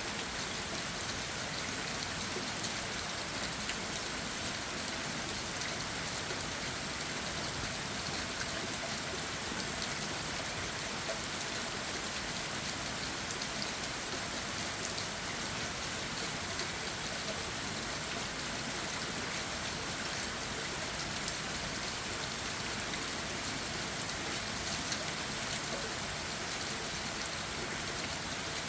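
Steady rain falling on leaves and ground, an even hiss with many small drop taps scattered through it.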